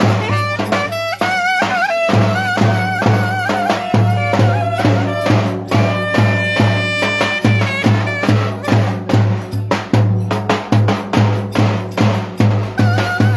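Live Turkish folk dance music: a melody instrument playing a wavering tune over a fast, steady drum beat.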